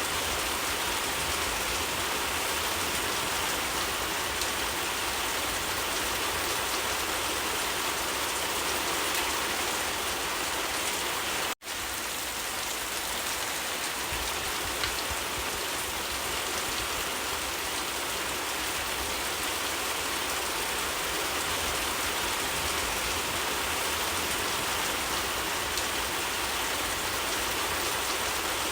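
Steady rain falling: a dense, even hiss with scattered drop ticks. The sound drops out for a split second about eleven and a half seconds in, then resumes unchanged.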